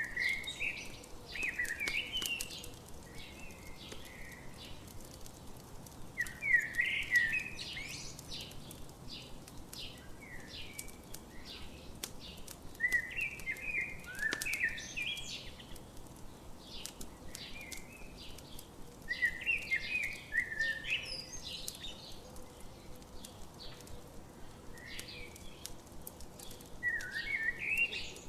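A songbird singing a short phrase of quick, jumbled notes, repeated about every six seconds, five times. Under it, a campfire crackles with scattered sharp pops.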